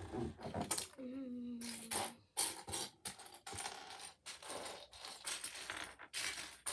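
Small loose plastic Lego pieces clattering as a hand rummages through them, an irregular run of quick clicks and rattles.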